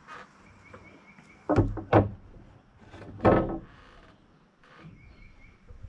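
Hammer driving nails into a wooden 1x4 purlin on a roof rafter: three loud strikes, two about half a second apart and a third just over a second later, each ringing briefly.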